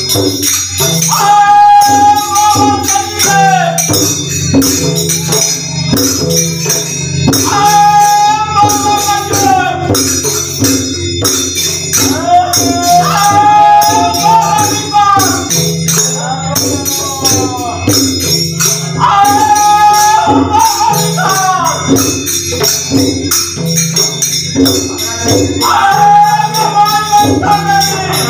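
Devotional bhajan singing, with a lead voice singing a phrase about every six seconds over a steady beat on a hand drum and jhal, small hand cymbals, played in fast continuous strokes.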